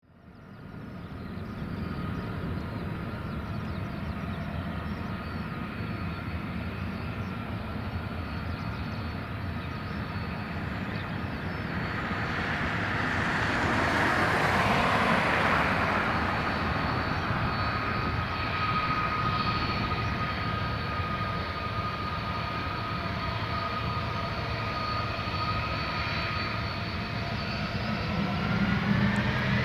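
Jet airliner engines running, a steady rush with high whining tones; the rush swells about halfway through and the whine starts to rise in pitch near the end.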